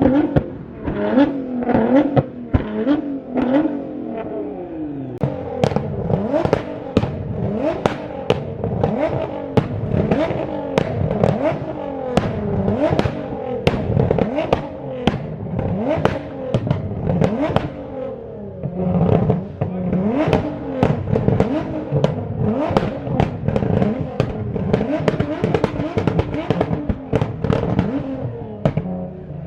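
Car engine revved repeatedly, its pitch rising and falling, with a rapid run of exhaust pops and bangs on each rev.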